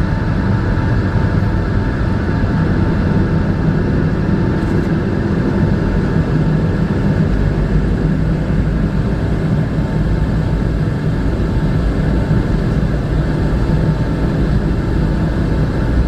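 Steady cabin drone of a Boeing 757-300 taxiing after landing, its jet engines at idle with a low, even rumble and a faint steady hum.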